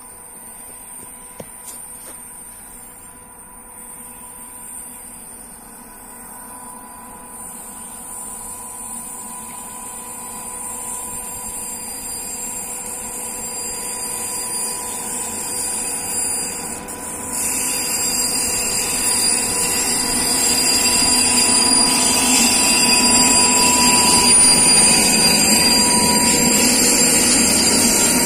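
Electric-hauled container freight train approaching and growing steadily louder. A steady whine runs throughout, and rumbling and high-pitched wheel squeal build up from a little past the middle as the locomotive reaches the camera.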